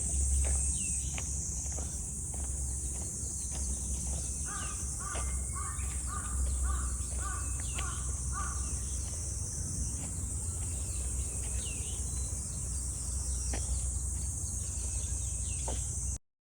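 Outdoor birdsong in a wooded park: a bird calls about seven times in a quick even series in the middle, with scattered short chirps from other birds. Under it runs a steady high-pitched hiss. The sound cuts off abruptly just before the end.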